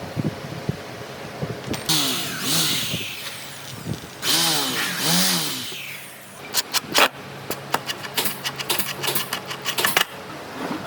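A small motor sped up and let run down twice, each time for about a second, then a run of sharp knocks and taps.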